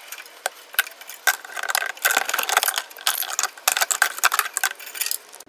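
Irregular metallic clicks, knocks and rattles of hand tools working around the serpentine belt tensioner and pulleys.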